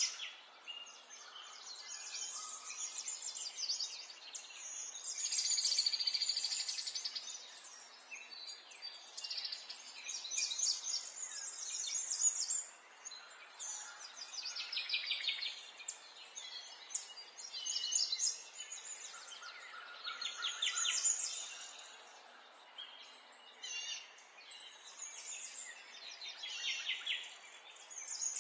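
Several birds singing and chirping, with fast trills and repeated chirp phrases coming and going every few seconds over a soft background hiss.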